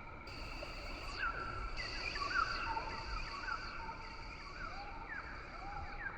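Rainforest ambience: a steady buzz of insects at several pitches, with many short chirping calls repeating over it and a soft hiss beneath.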